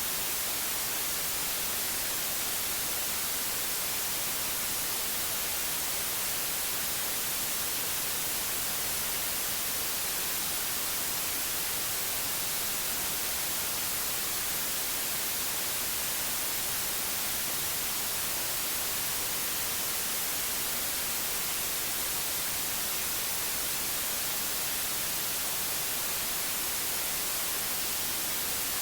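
Steady white noise: an even, unbroken hiss, strongest in the treble.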